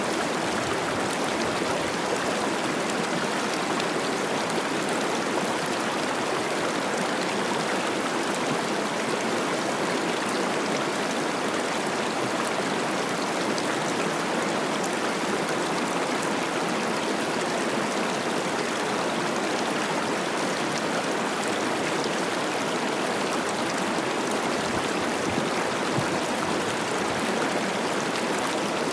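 Cache la Poudre River running high with spring snowmelt, a steady rush and babble of water over rocks.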